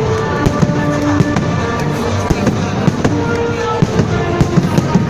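Fireworks salute going off in a rapid string of bangs and crackles, several a second, with music playing underneath.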